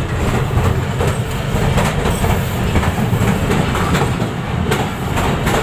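Passenger train running over the rails as it crosses a river bridge, heard at an open carriage door: a steady rumble of the wheels with light clicking.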